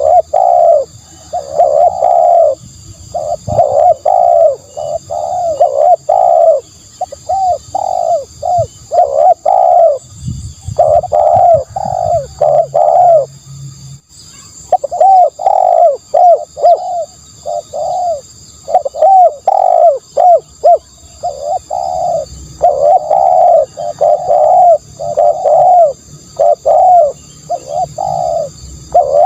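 Spotted dove cooing over and over in quick runs of low coos, with a pause of a few seconds midway; it is the dove's call used as a decoy to lure other doves. A faint steady high whine sits underneath.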